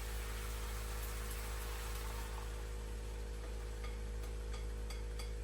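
Steady low electrical hum under a faint even hiss, with a few light ticks in the second half.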